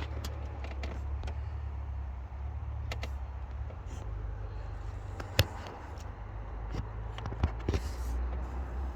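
2017 Audi Q5's 2.0-litre turbocharged four-cylinder engine idling with a steady low hum, with several sharp clicks and knocks on top, the loudest about five and a half seconds in.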